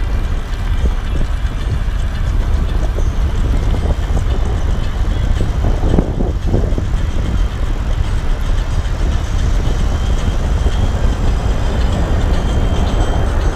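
Steady low wind rumble and buffeting on the microphone of a camera riding along on a bike, with the noise of travel underneath.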